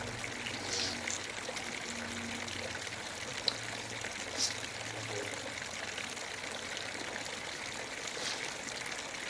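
Water running and trickling steadily, with a few light clicks.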